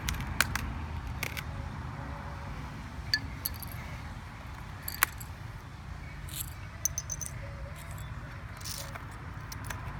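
Scattered sharp plastic clicks and light knocks from a MacBook keyboard being tapped and pried at, its keycaps coming loose, over a low steady rumble. The louder knocks fall about half a second, three seconds and five seconds in.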